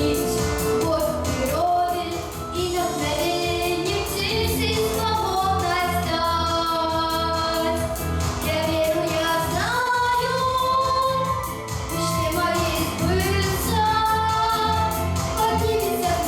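A female voice singing a Russian pop song in long held, sliding notes over a backing track with a steady beat and bass.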